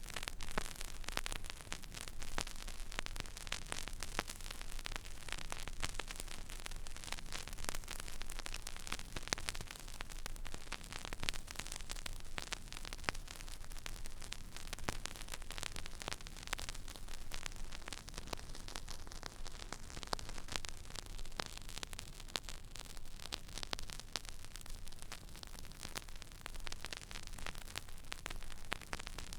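Stylus riding an empty vinyl record groove: steady surface hiss with dense crackle and small pops, over a low hum.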